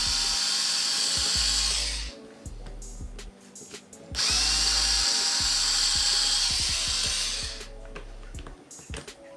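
A small drill running in two spells of about two and three seconds, each starting with a short rising whine. The first stops about two seconds in and the second starts about four seconds in.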